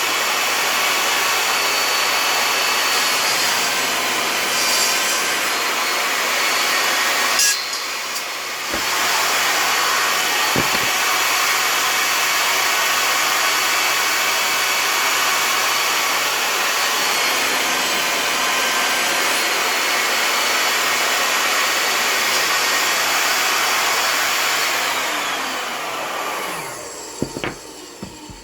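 Table saw running and ripping wooden fence pickets lengthwise into 4-inch strips, a steady loud whine with a short dip about eight seconds in. Near the end the saw winds down and a few knocks of wood follow.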